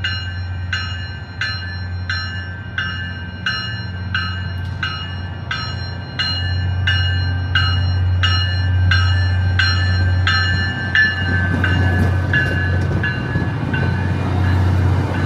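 MBTA commuter train's diesel locomotive coming through, its engine running with a steady low hum under a bell ringing about three strikes every two seconds. The engine gets louder about six seconds in. The bell's pitch dips slightly and its ringing fades near the end as the noise of the train rises.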